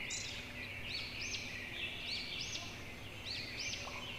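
Faint bird chirps: short, high, arching calls repeating every second or so over a soft background hiss.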